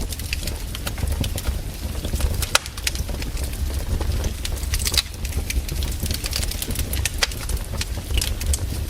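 Wood fire crackling: irregular sharp pops and snaps from burning logs over a steady low rumble.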